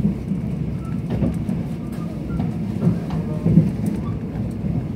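Steady low rumble of a moving Mugunghwa-ho passenger train heard from inside the carriage, with faint scattered clicks and rattles.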